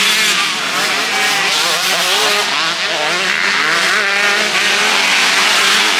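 Several motocross bikes racing past together, their engines revving up and down as they shift and change throttle, the overlapping pitches rising and falling throughout.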